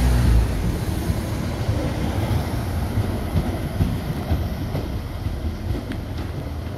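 A Class 170 Turbostar diesel multiple unit running on the rails. Its engine drone dies away just after the start, leaving a steady rumble of wheels on track that slowly fades, with a few sharp clicks near the end.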